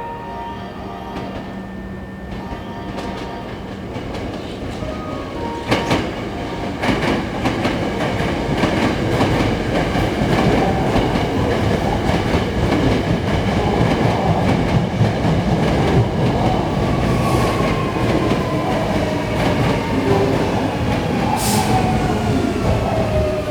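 Hankyu electric train pulling into the station. It grows louder as it approaches, with wheels clacking over rail joints. In the last several seconds its motor tones fall in pitch as it slows down.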